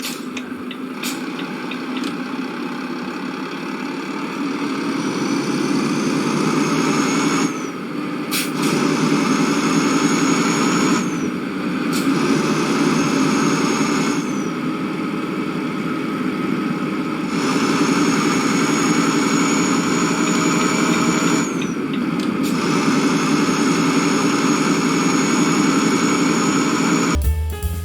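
A road vehicle on the move: steady engine and road noise, with a faint high whine that rises slowly and drops off at the end of each of about five stretches.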